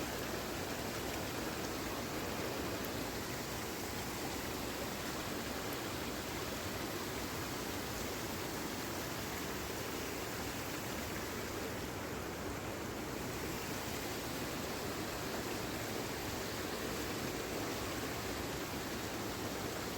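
Fast-flowing floodwater rushing steadily, a continuous unbroken wash of water.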